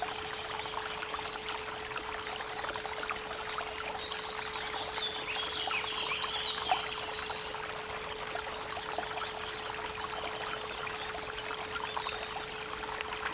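Creek water running and trickling steadily, with birds chirping and trilling now and then, over a constant 432 Hz pure tone humming underneath.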